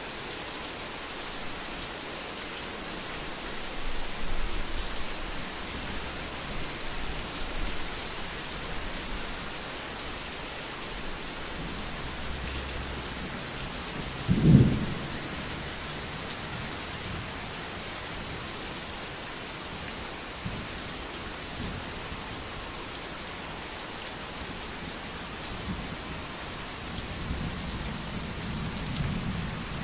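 Heavy rain falling steadily on a roof, with low rolls of thunder a few seconds in, shortly before the middle and near the end. A short, loud thunderclap about halfway through is the loudest sound.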